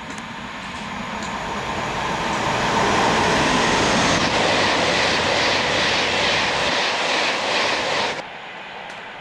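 Virgin Pendolino Class 390 electric tilting train passing through a station at speed without stopping: a rush of wheels and air that builds over the first few seconds, then a quick repeating beat as the carriages go by, cutting off abruptly about eight seconds in.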